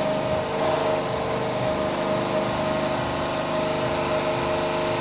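Espresso machine's vibratory water pump running steadily under load during a timed flow test, a steady hum. The pump is only a week or so old and putting out a high flow.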